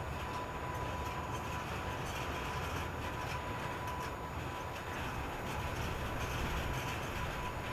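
Freight train of an EH500 electric locomotive and tank wagons moving through the station, a steady low rumble with a thin steady high tone over it.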